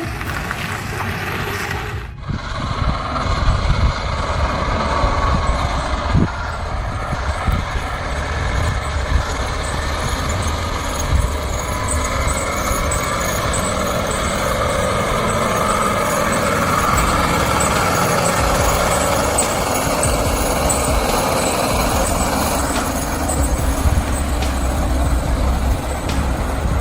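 Heavy truck running: steady engine and road noise over a deep rumble, with an abrupt change about two seconds in.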